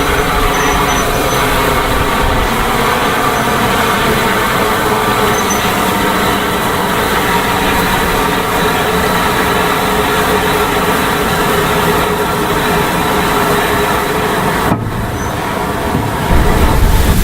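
A heritage railway train running steadily, a continuous rumbling noise with fixed tones through it. About fifteen seconds in it dips briefly, then a louder low rumble takes over near the end.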